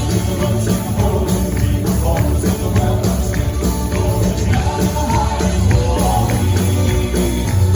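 Southern gospel male vocal quartet singing in harmony over a live band with heavy bass and a steady percussion beat.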